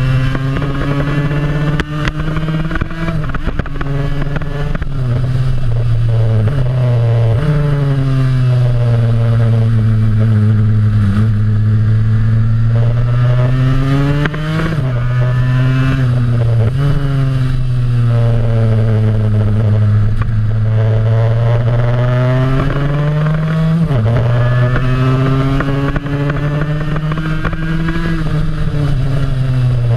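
1973 Yamaha RD350 air-cooled two-stroke parallel twin under hard acceleration, its pitch climbing through the revs and dropping sharply at each upshift, about five times, with longer sags and climbs as it backs off and drives out of bends.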